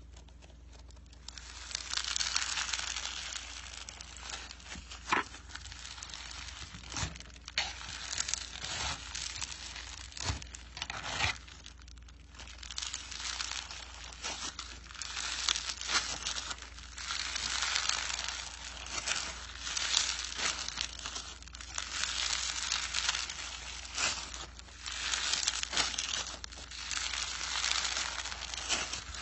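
Slime being squeezed and worked by hand, making a dense crackling, crinkling sound that comes in repeated swells, with a few sharper clicks and pops.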